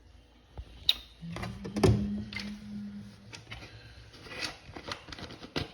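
Kitchen containers and utensils being handled while sauce ingredients are added: a run of clicks, taps and light knocks, with a low buzz for about two seconds starting a little over a second in.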